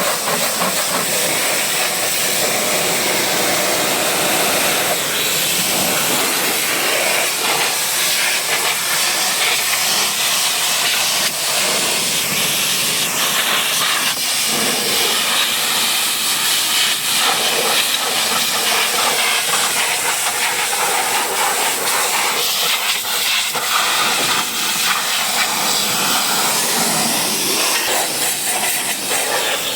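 High-pressure washer spray hissing steadily against a vehicle, a continuous rushing noise with small rises and falls in level.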